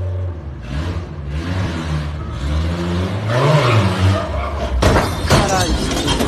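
Vehicle engine revving, its pitch rising and falling, with sudden impact sounds about five seconds in, as in a collision.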